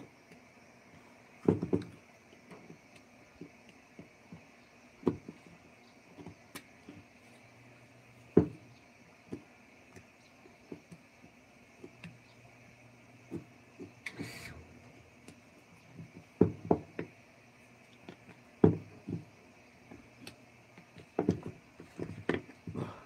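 Irregular sharp knocks and taps, some single and some in quick clusters of two or three, over a faint steady background hiss.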